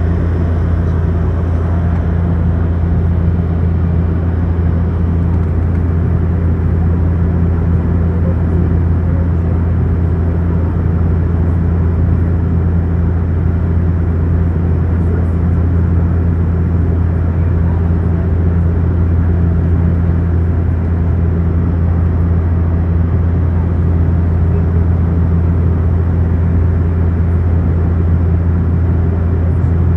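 Steady, loud engine drone with a strong low hum, unchanging throughout, as heard from inside a running vehicle.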